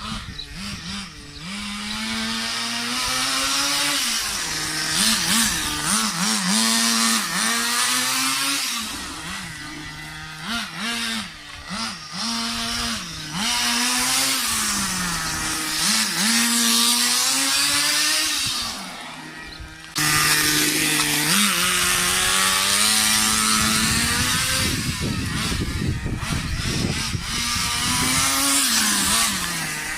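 Thunder Tiger 15 Pro nitro engine in an RC car, a small two-stroke glow engine, running with a high buzz, its pitch rising and falling again and again as the throttle is opened and closed. The sound changes abruptly about two-thirds of the way through.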